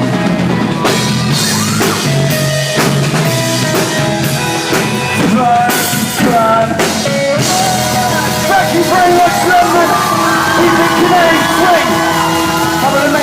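Live band playing a pop-rock song, with drums under a wavering melody line.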